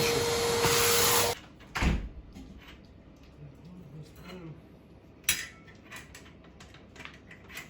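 Metabo vacuum cleaner running with a steady whine, then switched off about a second in and cutting out abruptly. After that come a thump and scattered knocks and clicks of tools and parts being handled.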